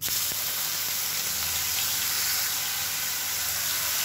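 Wet ground tomato, onion and red-chilli chutney paste sizzling loudly and steadily in hot oil in a nonstick pan; the sizzle starts abruptly as the paste hits the oil.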